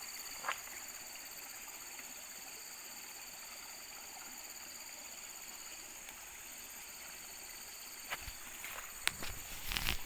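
Water running steadily in a stream, with a constant high-pitched drone over it. There is a short click about half a second in, and several knocks and splashes near the end.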